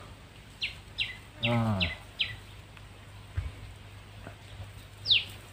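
A bird calling: five quick falling whistled notes, about two and a half a second, then a single louder falling note near the end. A soft low thump comes about midway.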